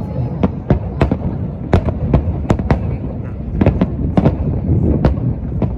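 Aerial fireworks shells bursting in quick succession, roughly three sharp bangs a second at uneven intervals, over a continuous low rumble of overlapping booms.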